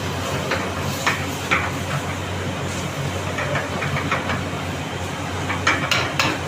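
Chicken frying in a kadai over a gas burner: a steady hiss over a constant low hum, with a few sharp clicks and scrapes, several close together near the end.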